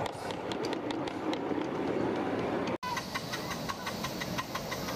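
Miniature railway train running on the track, a rumble with a rapid run of clicks. The sound cuts off abruptly a little under three seconds in and resumes with quicker, more even clicking, about five a second.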